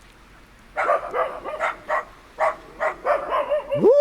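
Dogs barking in a rapid run of short, high barks, with a person's rising "woo!" starting near the end.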